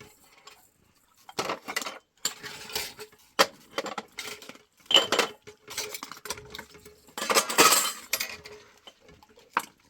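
Irregular clinks and knocks of hard objects being handled, like dishes or utensils, with a longer, louder clattering burst about seven seconds in.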